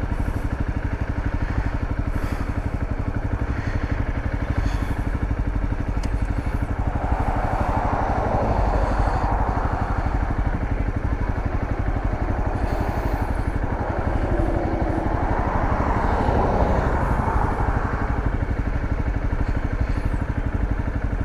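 Dirt bike engine running steadily while riding, with a rushing noise that swells twice, about seven and fifteen seconds in.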